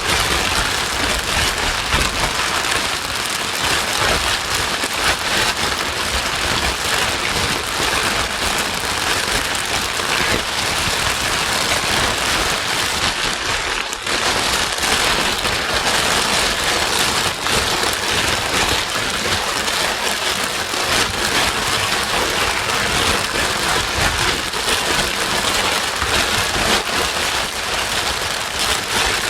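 Steady white noise: an even hiss across all pitches, with a brief dip in level about fourteen seconds in.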